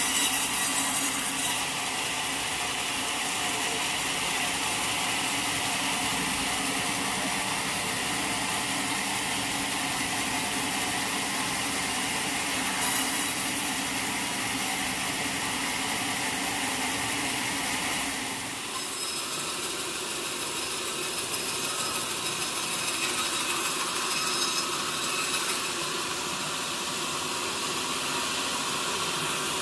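Sawmill saw cutting a mahogany log, a steady machine noise with a few held tones. About 18 seconds in the sound changes and the low rumble drops away.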